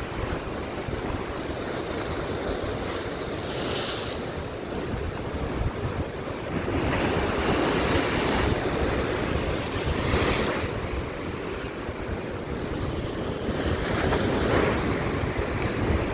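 Sea waves breaking and washing ashore, swelling louder several times a few seconds apart, with wind rumbling on the microphone.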